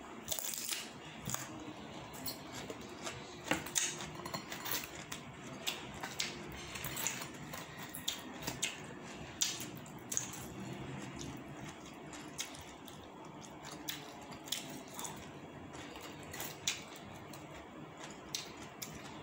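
Chewing crisp raw romaine lettuce, with irregular sharp crunches and mouth clicks.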